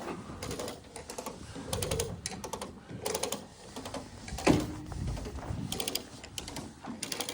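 A ratchet worked in short bursts of rapid clicking, every second or two, with one heavier thump about four and a half seconds in.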